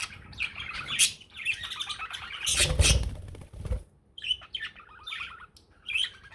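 Pet budgerigar warbling and chattering in quick bursts of chirps and rapid clicks. A loud rustling thump comes about two and a half seconds in and lasts about a second.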